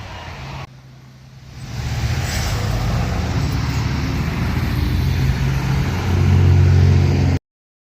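Antique tractor engine running with a low, steady note. It builds up about a second and a half in, grows louder near the end, then cuts off abruptly.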